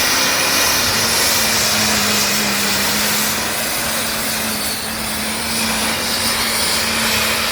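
Pulling tractor's engine running loud and steady at high revs, with a high thin whistle over it.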